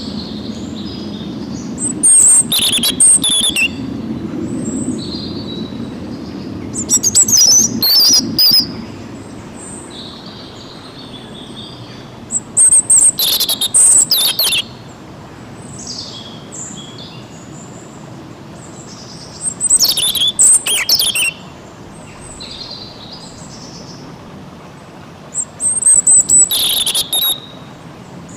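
A songbird singing loud, high-pitched song phrases, five of them, each lasting a second or two and coming about every six seconds, with softer chirps in between over a steady low background rush.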